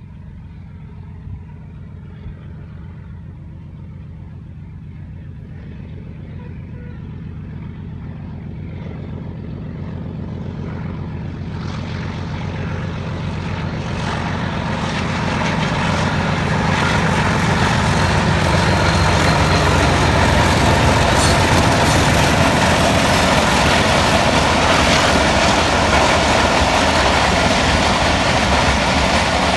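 Passenger train hauled by a diesel locomotive approaching: the locomotive's engine hum grows steadily louder for about fifteen seconds, then the train runs past close by, loud and steady.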